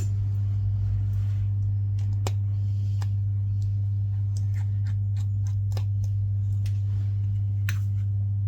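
Scattered light clicks of small precision tools on tiny screws and a phone's internal metal parts, irregularly spaced, over a loud steady low hum.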